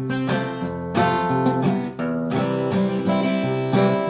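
Acoustic guitar strummed in a steady rhythm, a new chord about every second, as an instrumental passage between sung lines.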